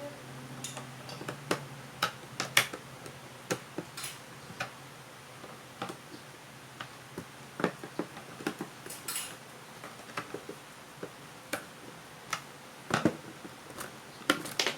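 Irregular sharp clicks and light knocks from small hard parts of a vacuum cleaner being handled during repair, some louder than others.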